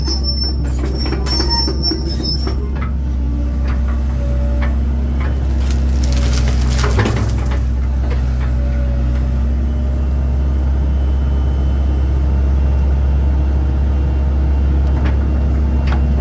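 1997 Link-Belt 2700 excavator's diesel engine running steadily under load while it works. There are short high squeals near the start and scattered knocks and snaps of wood and brush being moved, the loudest a crackling burst about seven seconds in.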